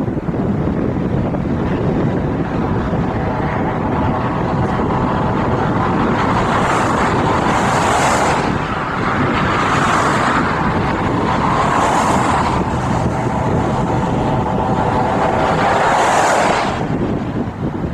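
A car running along a road, with steady road and wind noise. From about six seconds in, a louder swish comes back about every two seconds, five times, then stops.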